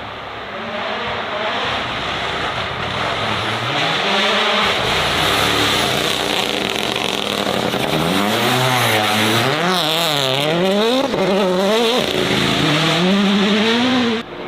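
Race car engine revving hard, its pitch rising and falling again and again as the throttle is worked, loud throughout. It cuts off abruptly shortly before the end.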